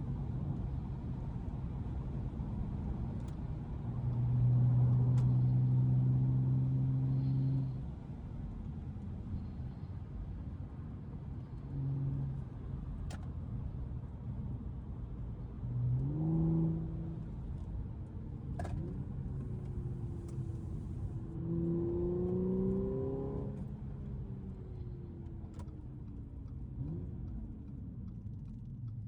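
Audi S5's supercharged 3.0 V6 engine under steady road noise: it holds a loud steady note for a few seconds, then rises in pitch as it accelerates twice and falls away again near the end.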